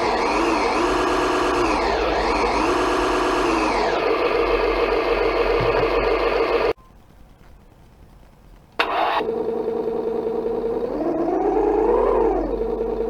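Simulated engine sound from an RC car's sound module played through its small speaker, sounding somewhat muffled: it revs up and down twice, then idles. About seven seconds in it cuts off suddenly; two seconds later a short rising start-up sound brings it back to idle, with one more rev near the end.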